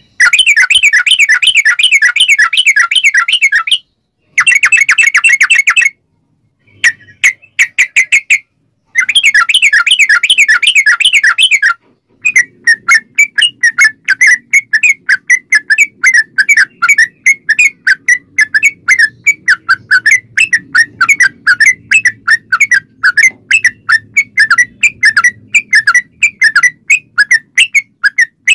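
Yellow-vented bulbul (trucukan) song: fast, chattering runs of repeated notes broken by brief pauses, then, from about twelve seconds in, a long unbroken series of rapid repeated notes.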